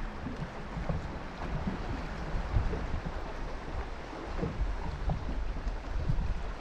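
Wind buffeting the microphone over a steady wash of water noise, with scattered soft low bumps and knocks.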